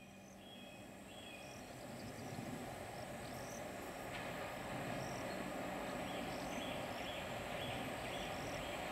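HŽ series 1142 electric locomotive hauling passenger coaches approaches, its rumble on the rails growing louder over the first few seconds and then holding steady. Birds chirp over it, with a quick run of short repeated calls in the second half.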